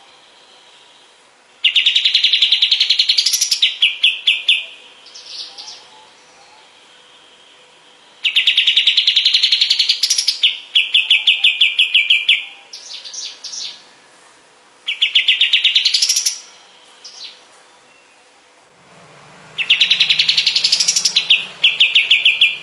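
Kapas tembak songbird singing in four bursts, each a rapid trill that climbs in pitch and runs into a fast, even chatter, with pauses of a few seconds between bursts. A faint steady electrical hum lies underneath.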